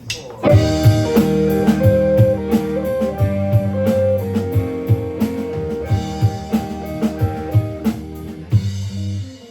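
Live rock band of electric guitars, bass and drum kit playing a short passage as a sound check, kicking in about half a second in with steady drum hits and held guitar notes, then stopping suddenly near the end.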